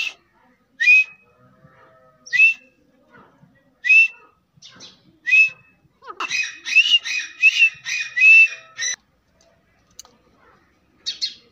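A teetar partridge calling: four short, sharp calls about a second and a half apart, then a rapid run of repeated notes for about three seconds, and one more short call near the end.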